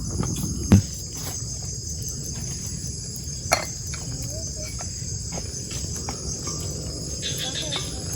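Crickets or other night insects chirring steadily, with a low rumbling noise underneath and two sharp knocks, one just under a second in and one about three and a half seconds in.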